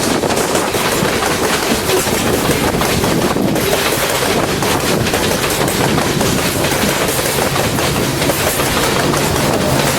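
Loaded freight cars rolling past with a steady rumble and clattering wheels.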